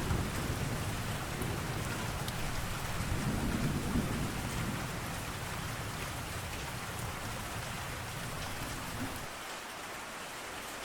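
Steady rain falling, with a low rumble of thunder that dies away about nine seconds in.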